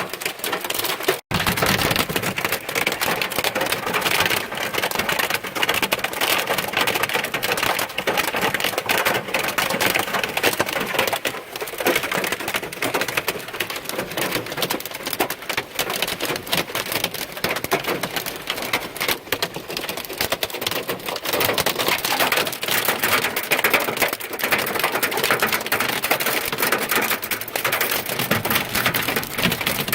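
Heavy rain pelting a car's roof and windshield: a loud, dense patter of many small impacts, dropping out for an instant about a second in.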